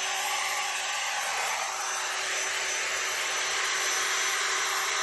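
Electric power tool sanding down metal on the car's suspension, its motor running at a steady whine over an even rushing hiss.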